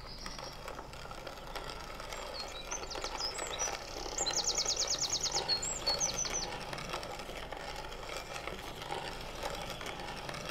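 Small songbird chirping in short high calls, with a quick even trill of about ten notes near the middle, over a steady background hiss.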